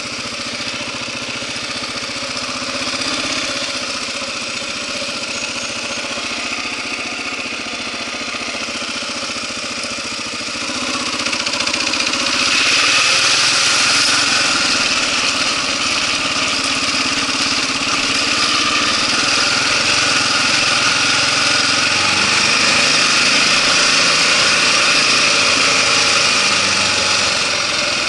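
Kawasaki KLR650's single-cylinder four-stroke engine running steadily at a standstill, then pulling away about eleven seconds in. From then on the engine and a rushing noise of wind and tyres on gravel are louder and stay steady.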